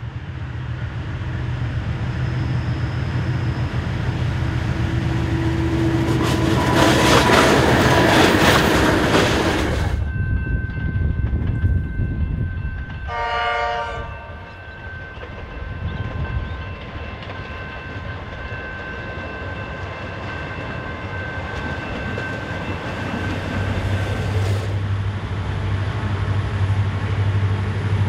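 Three train recordings in turn. First a diesel locomotive-hauled train passes, its engine and wheels loudest about eight seconds in. Then a Comeng electric suburban train runs with a steady whine and gives a short horn blast about thirteen seconds in, and near the end Pacific National XR class and G class diesel locomotives on a grain train run with a steady low engine drone.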